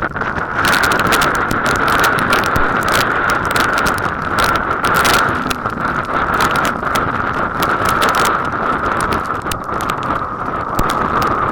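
Strong wind rushing over a running camera's microphone, with a runner's footfalls knocking on the path throughout.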